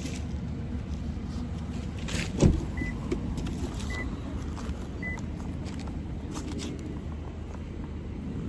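Car running with a steady low rumble. About two seconds in there is a single knock, then three short high beeps of the car's warning chime, about a second apart.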